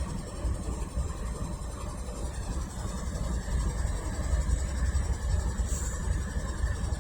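Low, steady rumble of diesel freight locomotives close by, with a faint thin high whine over it.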